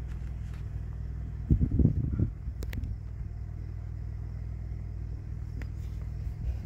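Car engine idling with a steady low hum. About one and a half seconds in there is a short burst of low rumbling, followed by a couple of sharp clicks.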